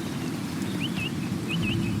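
A bird repeating short, quick up-and-down chirps, about two a second, starting about a second in, over a steady low rushing background noise.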